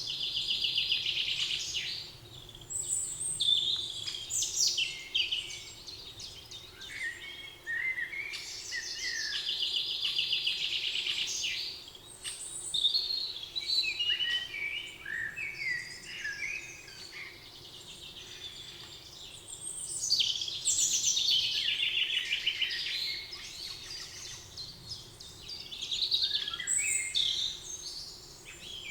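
Several songbirds singing in a forest. One bird repeats a fast trilled song about two to three seconds long, three times, roughly every ten seconds, and other birds fill the gaps with short chirps and whistles.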